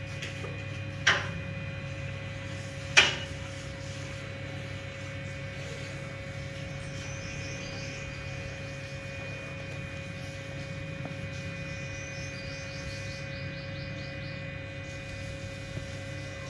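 Steady low machine hum with a faint constant whine, broken by two sharp clicks about one and three seconds in, the second louder.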